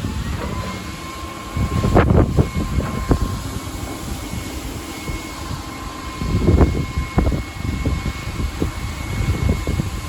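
Strong wind gusting through trees, a heavy low rumble that swells about two seconds in and again around seven seconds. A faint steady high tone comes in about half a second in and holds under the wind.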